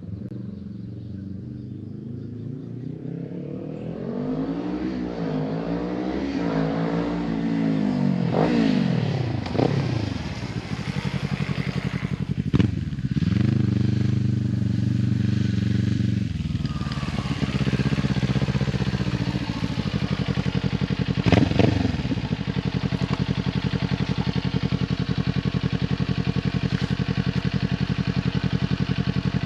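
Kawasaki Ninja 400 parallel-twin through an Akrapovic carbon slip-on exhaust, its note climbing and dropping several times as it grows louder. It then settles into a steady idle, broken twice by a brief throttle blip.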